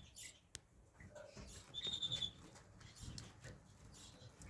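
Small caged finches calling: one gives a short, high rattling trill about two seconds in, among faint chirps, with a sharp click about half a second in.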